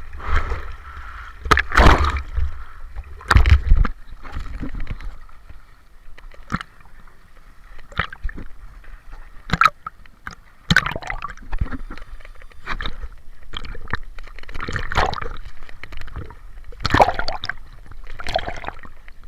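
Lake water splashing and sloshing irregularly as people swim, with two louder splashes about 2 and 3.5 seconds in.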